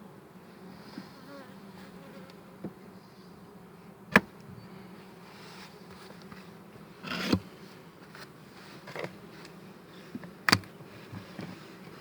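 Honeybee colony buzzing steadily in an open hive, with three sharp knocks or clacks about four, seven and ten and a half seconds in, the middle one a short scrape.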